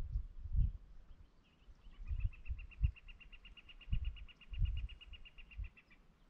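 A bird's trill: a steady run of rapid, even, high notes, about ten a second, starting about two seconds in and lasting about four seconds. Scattered low thumps come and go underneath.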